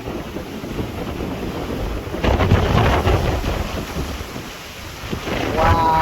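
Wind buffeting the microphone with a steady rumble, rising to a louder rush about two seconds in.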